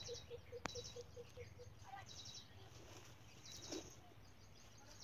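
Faint bird chirping: short, rapid high trills repeated about every second and a half. Over the first two seconds there is also a low, even pulsing about four times a second, then a single click early on and a soft rustle near the end.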